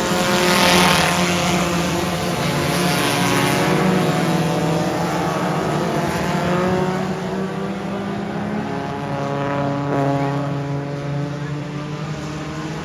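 Several dirt-track race car engines running at speed together, their pitches rising and falling as the cars go by. The loudest pass comes about a second in.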